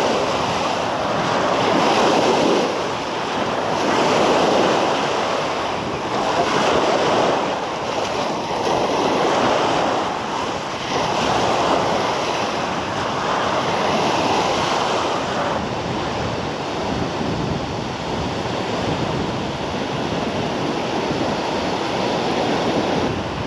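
Sea waves washing onto the beach, swelling and ebbing every couple of seconds, with wind buffeting the microphone.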